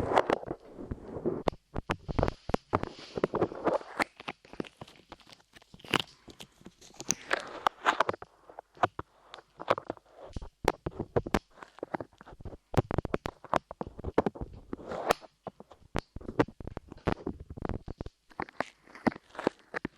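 Light clay squished and pressed against a microphone's ears: an irregular stream of sticky crackles, clicks and soft squishes close to the microphone.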